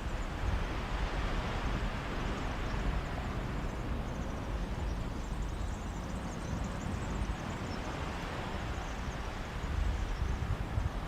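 Sea waves washing on a Mediterranean beach: one wash swells over the first few seconds and fades. Under it, a sea breeze buffets the microphone with an uneven low rumble that grows heavier near the end.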